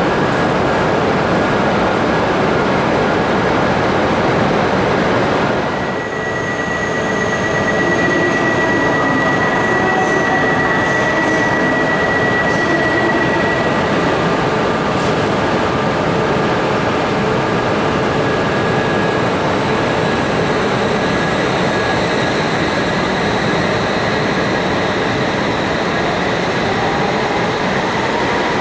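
Shinkansen train running along a station platform: a loud, steady rush of wheels and traction motors. A brief dip about six seconds in is followed by a thin, high steady whine that lasts several seconds.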